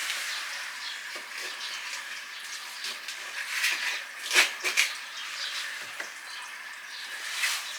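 Steady hiss of water running into a storage tank as it fills from a well, with two light knocks about halfway through.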